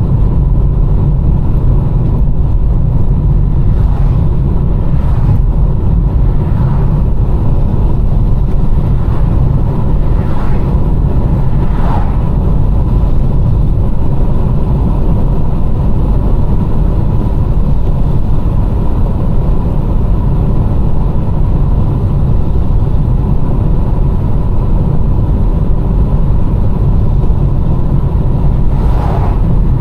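Car driving on a rain-wet road: a loud, steady low rumble of engine and tyre noise, with a few faint brief swishes.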